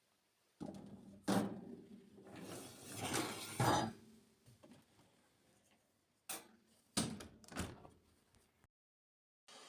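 Kitchen handling sounds: a knock about a second in, a stretch of rustling and scraping, then three separate sharp knocks near the end.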